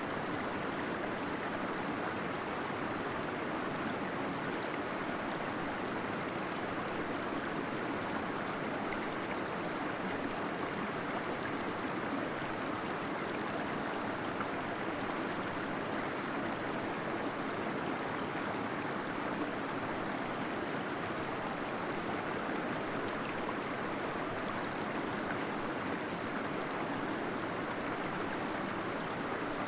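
Gentle waterfall flowing steadily, an even rush and gurgle of falling water.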